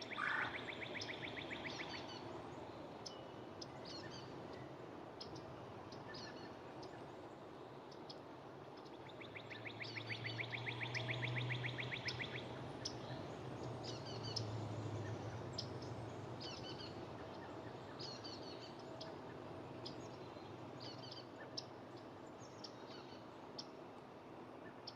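Songbirds calling: a long, dry trill of rapid even notes, heard twice, with scattered short high chirps and a brief rising whistle near the start. A low hum rises and fades in the middle.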